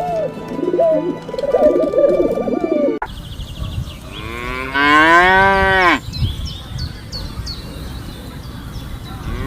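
A cow mooing once: a long call that rises slightly, then drops sharply in pitch and ends. Small birds chirp faintly after it. Before it, a different busy wavering sound stops abruptly about three seconds in.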